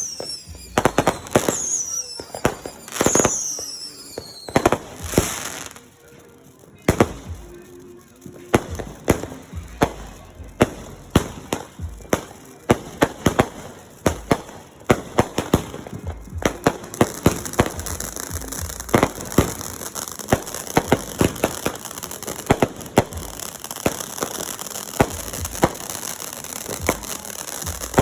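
Fireworks going off in a rapid string of sharp bangs and crackles. A few falling whistles sound in the first few seconds, and from about halfway through a steady hiss runs behind the bangs.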